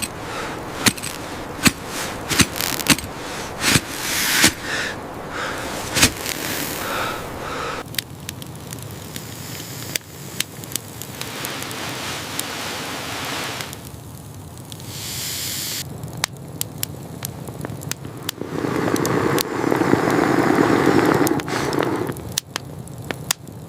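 Newly lit wood fire crackling, with frequent sharp pops and snaps, and a louder stretch of rustling noise near the end.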